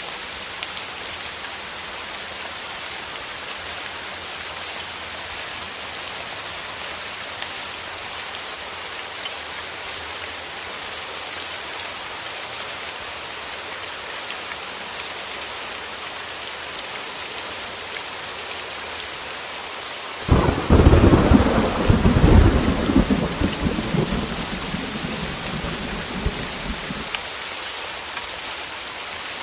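Steady heavy rain hiss. About two-thirds of the way through, a sudden loud thunderclap breaks into a low rolling rumble that fades over several seconds.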